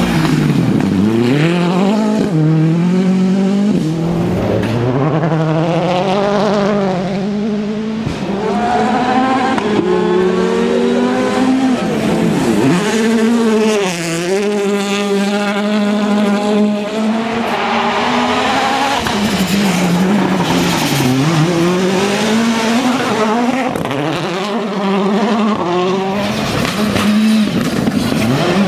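World Rally Cars' turbocharged four-cylinder engines at full throttle. The engine note climbs steeply through the gears, each rise cut short by a quick upshift, and drops sharply several times where the cars brake and downshift for corners, with tyres squealing.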